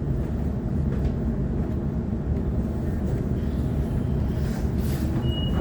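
Steady low rumble of a Sydney Trains Waratah electric multiple unit running between stations, heard from inside the carriage. A brief high beep sounds near the end.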